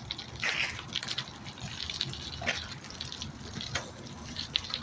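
Bicycle ride heard from a phone mounted on the bike: a steady low rumble of tyres and wind with irregular small rattles and clicks.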